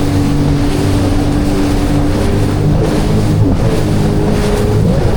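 Jet ski engine running under way, a steady drone that dips in pitch and comes back up about halfway through and again near the end, over a rush of water and wind.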